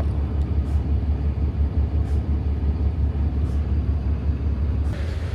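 Steady low rumble of a semi truck's engine and road noise heard inside the cab while driving.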